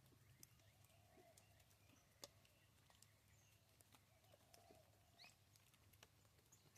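Near silence: faint, scattered light ticks of pheasants pecking at seed, with one brief rising bird chirp about five seconds in.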